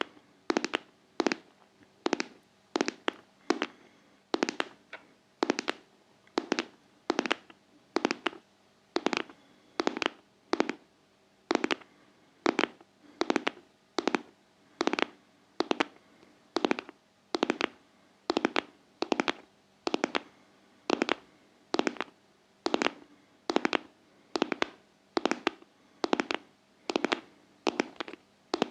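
ASMR tapping on a heart-shaped object: a steady run of sharp, crisp taps, about two to three a second, often falling in close pairs.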